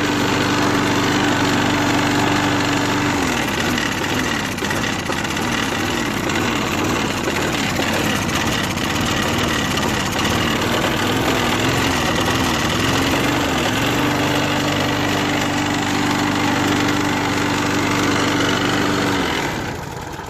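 Push lawnmower engine running on CRC lubricant sprayed into the air intake: it runs steadily at high speed, then surges up and down unevenly for several seconds, settles again, and dies near the end. The surging comes from the uneven hand spray, over-revving and under-revving.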